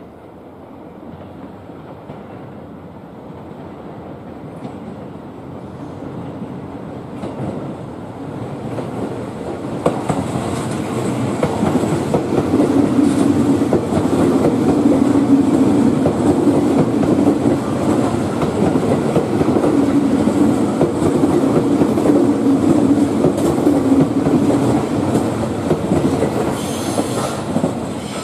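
E653 series electric express train approaching and rolling slowly past, its wheel and rail noise growing steadily louder. The wheels clatter over the rail joints, and a low wavering tone comes and goes while the train is alongside.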